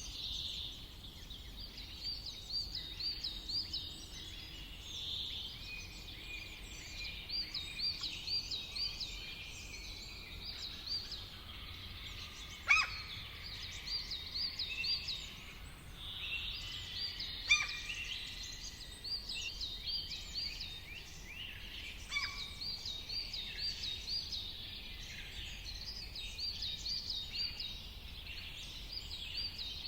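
Several birds singing and calling together, with quick runs of repeated high notes over a faint steady background hiss. Two sharp, loud calls stand out near the middle, about five seconds apart.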